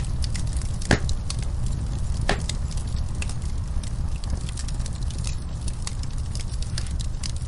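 Wood fire crackling in a fireplace: a steady low rumble under frequent small pops, with two louder pops about one and two and a half seconds in.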